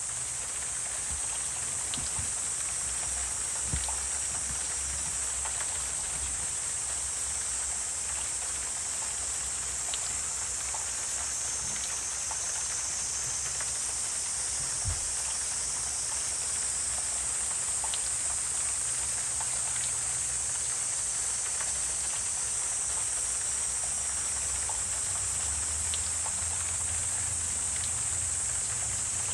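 Wetland ambience: a steady, high-pitched chorus of wetland creatures, with scattered faint ticks and drips over a low rumble. There is one soft knock about halfway through.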